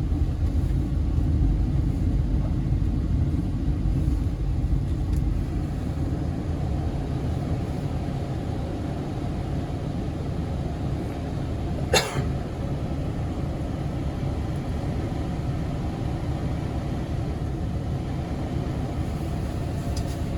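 Hyundai Porter 2 truck's engine idling with a steady low rumble, and one sharp click about twelve seconds in.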